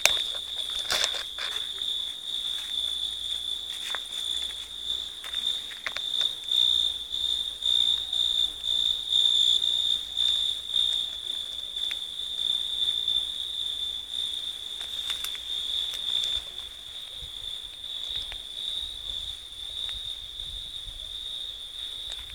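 Insect song: one continuous, steady high trill with no pauses. A few faint clicks sound in the first seconds.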